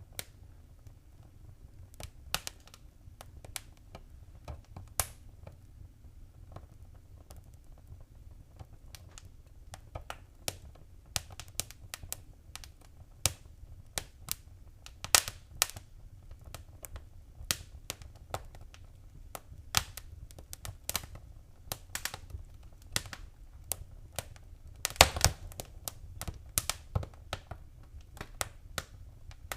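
Wood fire crackling in a fireplace: irregular sharp pops and snaps over a low steady rumble, sparse at first and growing busier, with a burst of louder pops about 25 seconds in.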